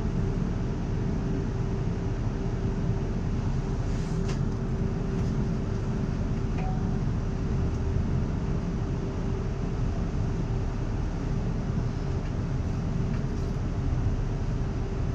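Class 360/2 electric multiple unit heard from inside the carriage while running: a steady low rumble with a constant hum at one pitch and a few faint clicks.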